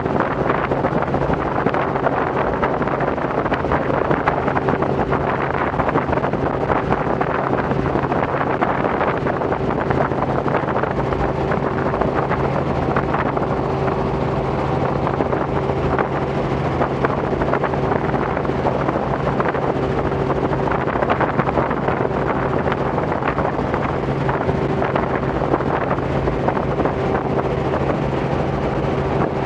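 Robinson R44 helicopter in flight: steady engine and rotor drone with a constant hum, mixed with wind buffeting the microphone.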